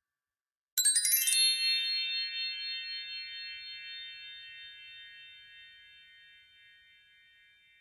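A chime sound effect: a quick glittering run of high tinkling notes about a second in, then a held ringing chord of high tones that slowly fades away.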